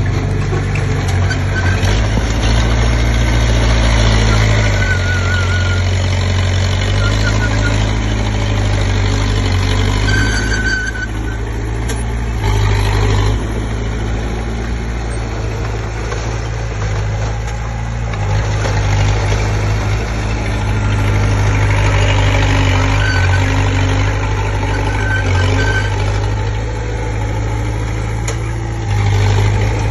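Komatsu D20P bulldozer's diesel engine running and working, its loudness rising and easing as the load changes. A few short high squeals come and go over it, about a second and a half in, around five seconds, at about ten and a half seconds and in the twenties.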